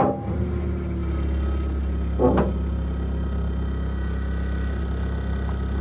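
An engine idling steadily, with one brief harsh noise about two seconds in.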